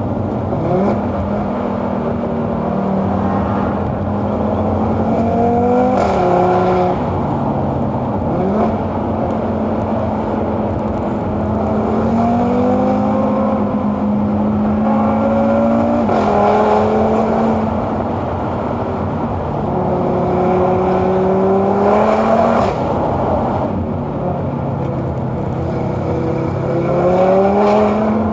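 A sports car's engine accelerating hard through the gears: its pitch climbs steadily, then drops sharply at each of about five upshifts.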